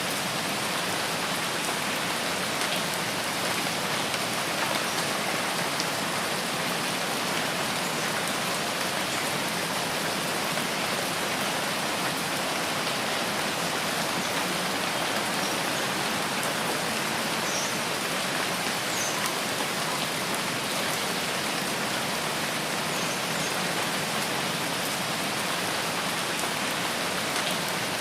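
Steady rain falling in a forest: an even, unbroken hiss of many drops hitting foliage and ground.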